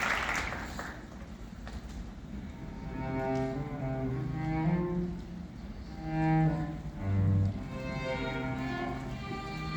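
Instrumental introduction to a musical-theatre song, played by bowed strings (cello and violin) in slow, held notes. A short burst of noise comes at the very start.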